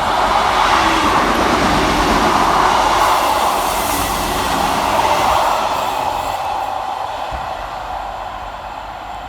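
Two coupled Class 158 diesel multiple units passing through the station at speed without stopping. The noise builds in the first second, holds for a few seconds, then fades steadily as the train goes away.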